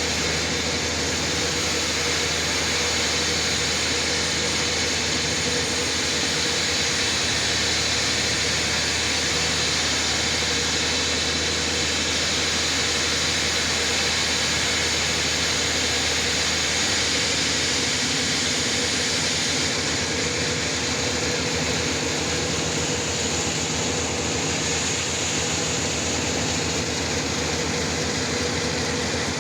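Sawmill running steadily, its saw cutting through a large trembesi (rain tree) log with a continuous hiss over a steady machine hum.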